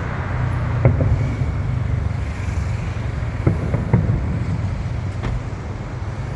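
Fireworks shells bursting in the distance: several sharp bangs, one about a second in and a quick cluster between three and a half and four seconds in, with another near five seconds, over a steady low rumble of road traffic.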